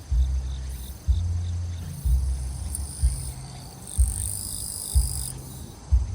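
Grass insects, crickets among them, chirring in steady high trills over the bass beat of distant music thumping about once a second. A louder high buzz joins for about a second a little past the middle.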